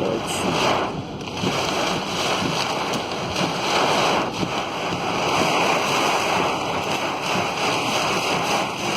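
Steady rushing noise of water in a monsoon flood.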